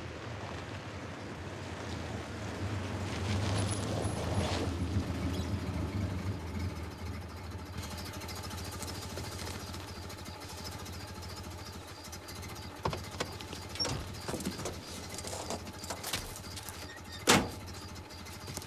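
A vintage car's engine running as the car pulls up, louder for a few seconds, then ticking over more quietly. Later come several short knocks and clunks, with one sharp loud knock near the end.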